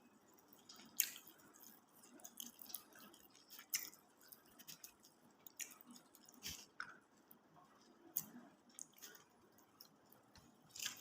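Close, wet chewing and mouth smacking of someone eating: an irregular string of short smacks and clicks, the loudest about a second in and again near the end.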